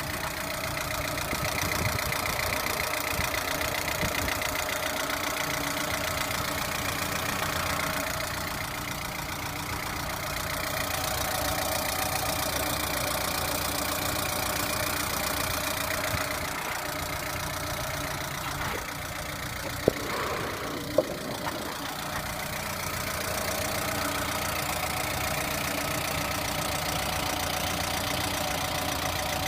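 Lada Priora engine idling with a knock that the owner links to a hydraulic lifter. Two sharp clicks about a second apart come a little under two-thirds of the way in.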